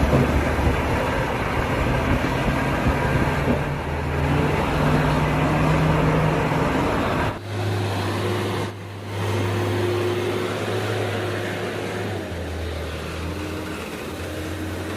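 Truck diesel engine running at low speed as a long bitrem manoeuvres, its note rising a little before a sudden change about halfway through, with two brief dips, then running steadily again.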